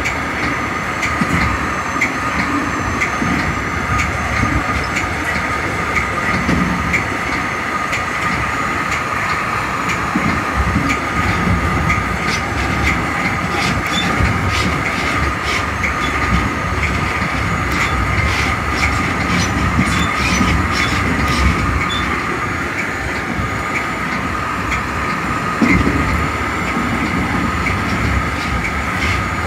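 Metra commuter train heard from inside its cab car running at speed: a steady rumble of wheels on rail with a constant high whine. Through the middle stretch the wheels clatter over rail joints or switches in a run of sharp clicks.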